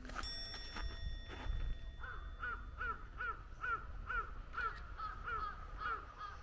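A bird calling over and over: about ten short calls at an even pace of two or three a second, starting about two seconds in, over a steady low rumble.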